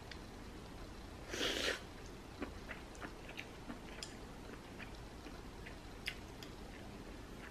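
A person chewing food, with small soft mouth clicks and one short, louder noisy sound about a second and a half in.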